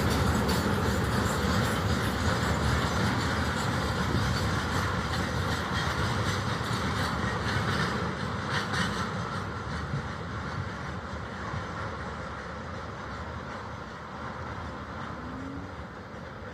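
Heavy freight train rolling along the track, its wheels clattering on the rails, the sound fading steadily as it moves away.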